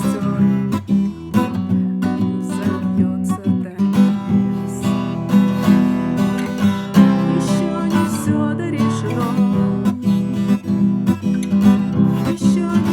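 Acoustic guitar strummed in a steady rhythm, playing an instrumental passage of the song.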